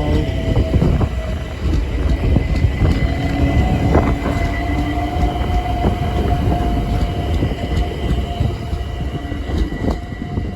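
London Overground Class 378 electric multiple unit moving through the station. It makes a continuous rumble with steady electric whines and a few sharp clicks from the wheels over the rail joints.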